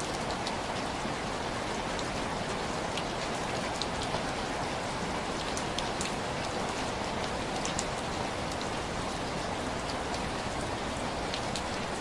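Heavy rain falling steadily, with scattered faint sharp ticks throughout.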